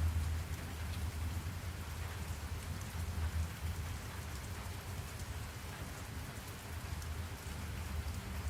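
Steady rain falling, with faint scattered drop ticks over a constant low rumble.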